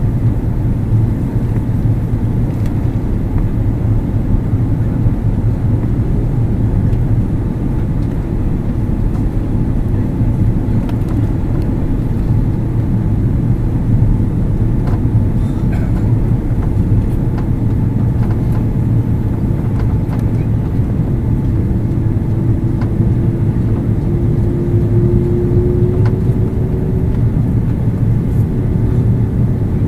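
Steady roar of airliner cabin noise inside an Airbus A330-300 on descent: engine and airflow noise, deepest at the low end. A faint steady tone runs under it and climbs slightly in pitch in the latter part.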